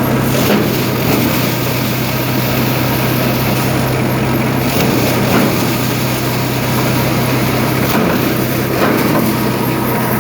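New Holland tractor's diesel engine running steadily, with a constant low note.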